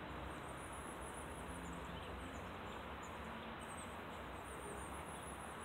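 Faint, very high, thin chirps from small birds, coming in quick repeated runs, over a steady low background hiss.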